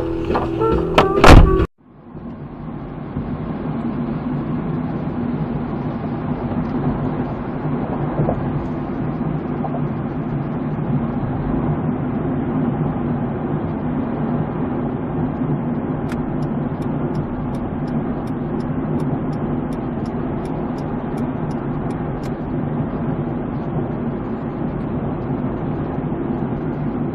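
Steady car engine and road noise recorded from inside a moving car by a dashcam, with a faint regular ticking for several seconds in the middle. Loud music cuts off abruptly just before it starts.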